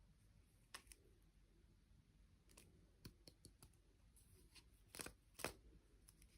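Faint, scattered small clicks and taps of hands handling objects, with a louder pair of clicks about five seconds in.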